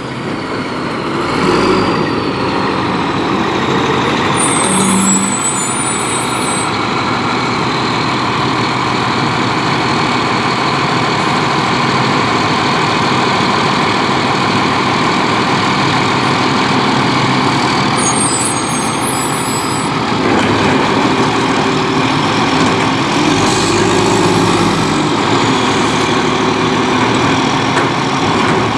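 Volvo WXLL garbage truck with a Labrie Expert 2000 side-loader body running steadily, with a mix of engine and machinery noise. Two short, high-pitched sounds come about four seconds in and again around eighteen seconds.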